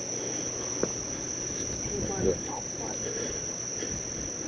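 Chorus of night insects: one steady, high-pitched trill, with a single sharp click about a second in and a few brief faint sounds around two seconds in.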